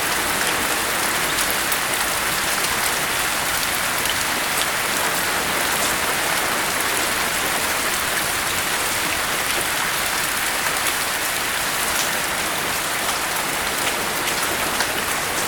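Steady rain: an even hiss with faint scattered drop ticks and no thunder.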